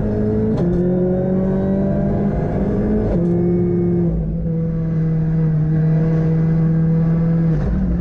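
Ford Fiesta R5 rally car's turbocharged four-cylinder engine heard from inside the car under hard acceleration. The pitch climbs, then drops sharply on upshifts about half a second in and about three seconds in. The engine then holds a steady high note for several seconds before dropping again near the end.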